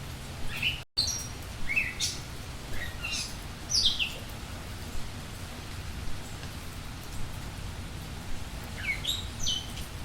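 Budgerigars chirping in short, quick falling calls, a cluster in the first few seconds and another near the end, over a steady hiss. The sound cuts out completely for an instant about a second in.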